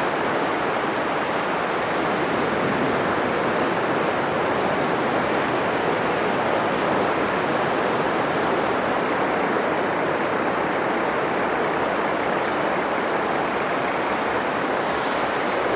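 Atlantic surf breaking continuously on a sandy beach: a steady, even rush of waves and foam, with a brief rise of high hiss near the end.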